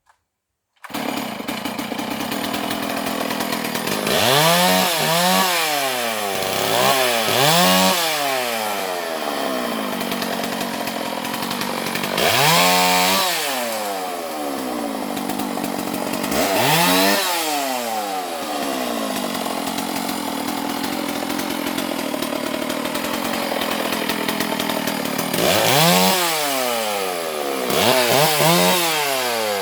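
Two-stroke chainsaw running, starting abruptly about a second in, with its engine revved up and let back down about ten times, the pitch rising and falling with each rev while cutting a tree.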